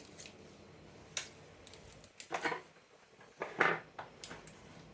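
Small clicks and short scraping sounds of hands working the phone's speaker wires onto their plastic connector pins: a sharp click about a second in, two brief rustling scrapes, and a light tick near the end.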